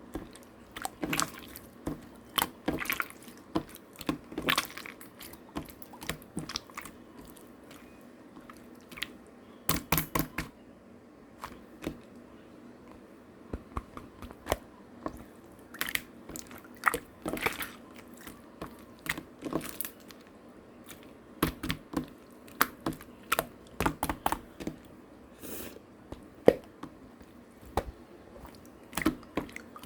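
Slime being squeezed and poked by hand, giving irregular wet, sticky clicks and small pops, often in quick clusters.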